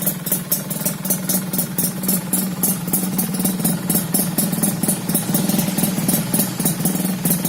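Yamaha F1ZR's two-stroke single-cylinder engine idling steadily through an aftermarket racing exhaust, holding an even note.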